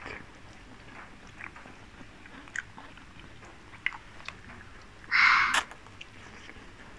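Close-up eating sounds of a person chewing and biting into marinated chicken, with small wet mouth clicks. About five seconds in comes a brief, much louder burst of noise lasting about half a second.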